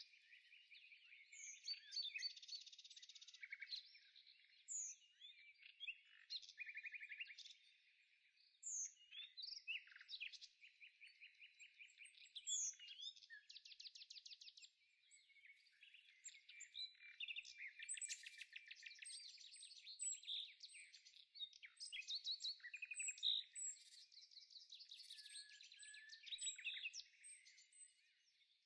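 Faint birdsong: several birds chirping and trilling without a break, with quick repeated-note trills and short whistled chirps.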